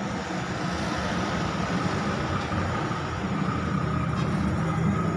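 Steady background noise: a low rumble with a hiss over it and a faint steady tone, with no distinct events.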